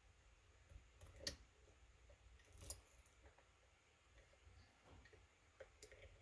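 Faint metallic clicks and small scrapes of a lock pick and tension wrench working the pins of a kick cylinder. Two sharper clicks come about a second and a half apart near the start, then a few lighter ticks.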